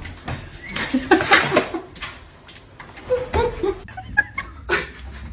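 A person laughing in short breathy bursts.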